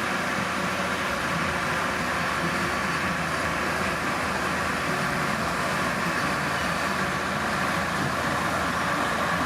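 Komatsu D31P bulldozer's diesel engine running steadily, with a constant mechanical noise.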